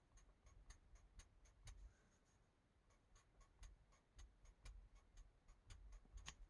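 Faint, quick light ticks of a marker tip stroking paper while colouring, about four a second.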